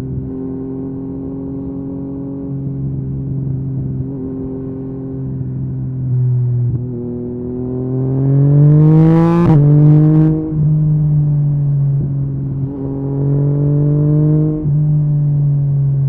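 Yamaha MT-09's three-cylinder engine through an Akrapovic carbon exhaust while riding. A steady cruising note climbs in pitch under acceleration past the middle, drops sharply at a gear change, and steps down again at another shift near the end.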